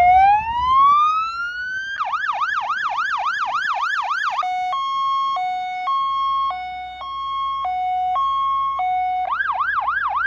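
Electronic siren on a 1990 International Grumman fire truck being run through its tones. It opens with one slow rising wail, switches to a fast yelp of about three to four sweeps a second, then to a two-tone hi-lo, steady high and low notes alternating about every half second, and near the end goes back to the fast yelp.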